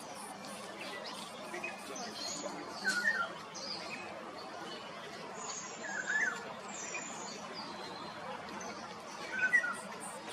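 A bird giving short chirps, three of them a few seconds apart, the last the loudest, with fainter high chirps between, over a steady background hiss.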